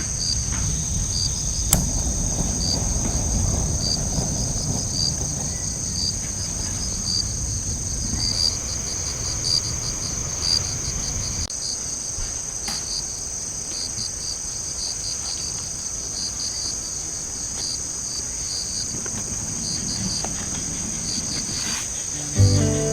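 Crickets and other grass insects trilling steadily in a high, continuous chorus with pulsing chirps, over the low crackle and occasional sharp pops of firewood burning in a fire pit.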